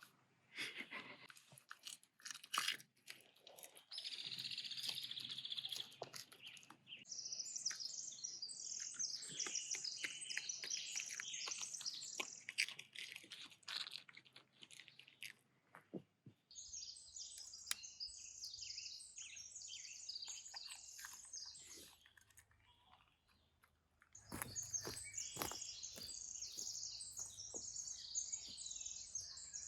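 A dachshund crunching a fresh sugar snap pea in a few sharp bites. Small birds chirp busily after a few seconds, in several stretches.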